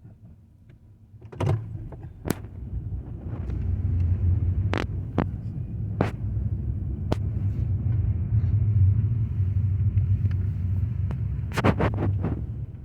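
Low, steady rumble of a car running. It builds up over the first few seconds and then holds, with scattered sharp clicks and knocks and a quick cluster of them near the end.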